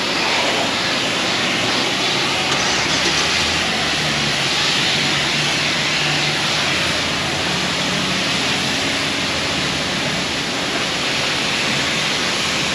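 Pressure-washer wand spraying water onto a truck camper during the pre-wet rinse, a steady hiss of spray with a faint low hum underneath.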